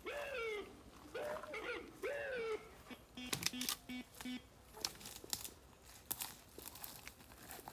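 An animal giving a series of short cries that rise and fall in pitch, several in the first few seconds. These are followed by four quick short pulses, then scattered clicks and rustling.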